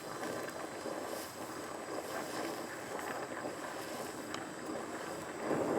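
Oxy-acetylene torch flame hissing steadily as it heats a rusted, seized fitting to break it loose.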